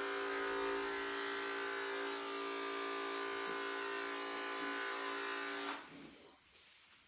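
Electric pet hair clippers running with a steady buzz, then stopping near the end.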